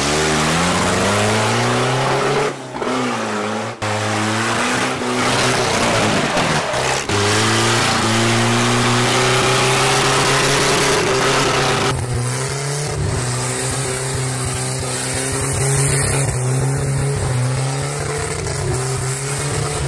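A Volga's ZMZ-24 four-cylinder engine being driven hard, its revs climbing and falling again and again, with two brief sudden cut-offs early on as the throttle is lifted. In the later part it holds steadier revs.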